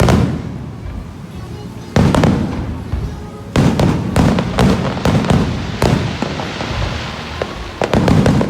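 Aerial fireworks bursting: loud booms with crackling tails, one at the start and one about two seconds in, then a rapid run of bangs from about three and a half seconds on and another quick cluster near the end.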